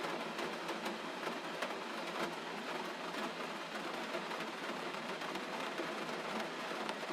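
Steady gentle rain: an even hiss with scattered sharp ticks of single drops.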